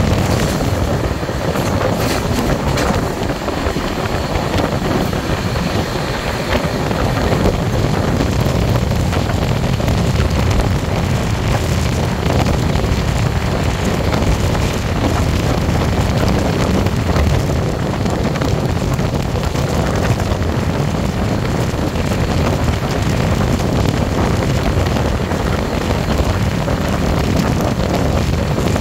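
Steady rush of wind and low rumble of a passenger train running at speed, heard from its open door, with wind buffeting the microphone and a few faint clicks in the first few seconds.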